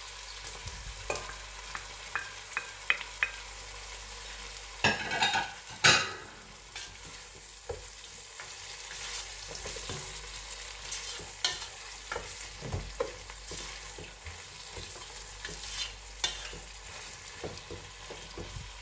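Diced vegetables sizzling in a stainless steel pot while prawns are scraped in and stirred with a wooden spoon. There are a few light taps in the first three seconds, two louder bursts of clatter and sizzle about five and six seconds in, and then scattered knocks of the spoon against the pot during stirring.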